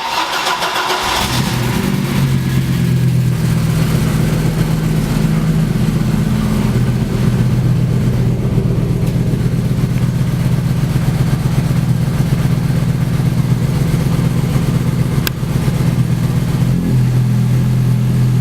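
Audi S2's turbocharged inline five-cylinder engine starting through an aftermarket Borla exhaust (3-inch pipe splitting into twin 2.25-inch pipes), then settling into a steady idle.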